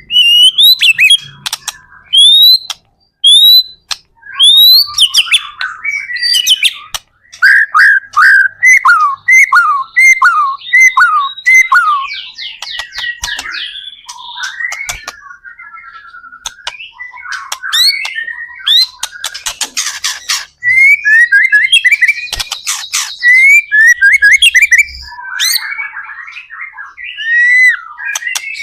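White-rumped shama singing a loud, varied song. It opens with short rising whistles, then gives a run of falling notes at about two a second, broken by faster, denser chattering phrases.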